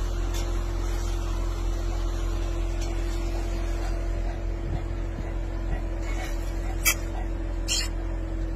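Steady low rumble with a constant hum inside a Chevrolet Corvette's cabin, its engine running. Two short sharp clicks come near the end.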